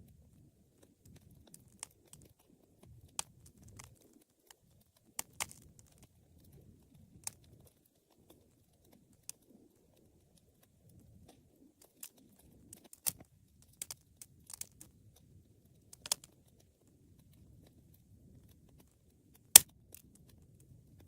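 Wood fire crackling: irregular sharp pops and snaps over a faint low background, with one loud pop near the end.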